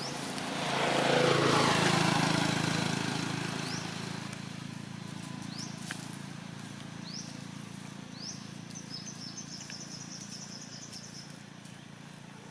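A vehicle passes by, loudest about two seconds in, its pitch falling as it goes past and fades away. After that a bird calls several short rising chirps, then a quick trill.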